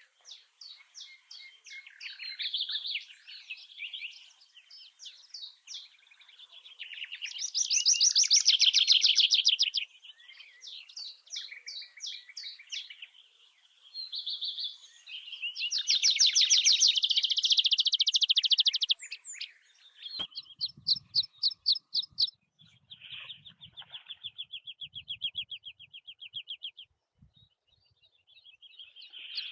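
Songbirds singing rapid trills and chirps, with several loud trilled phrases. About two-thirds of the way through, the birdsong changes to a steadier, lower trill.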